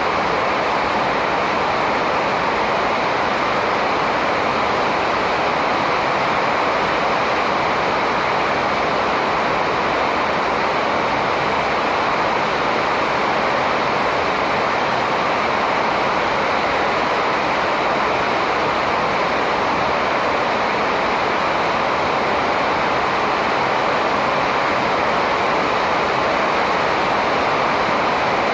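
Steady, even rushing noise that never changes, with no bird calls or other events standing out.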